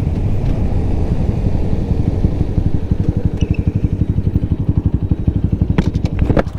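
Small single-cylinder motorcycle engine running, easing off to a low, evenly pulsing chug about two seconds in. A few sharp clicks come near the end.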